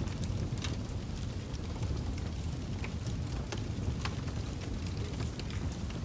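Campfire burning: irregular sharp crackles and pops of burning wood over a steady low rumble.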